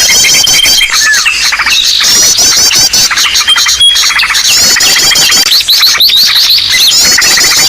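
Bird-trapping lure recording of many small birds calling at once: a loud, dense chorus of rapid chirps and trills, with thin held whistles recurring.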